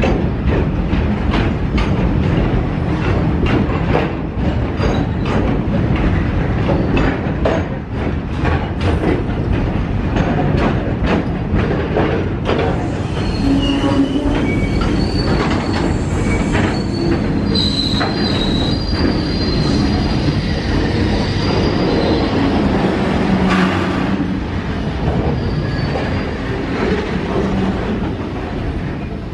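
A train passing close by, its wheels clicking over rail joints in quick succession over a steady rumble. From about halfway, high wheel squeal comes in on top.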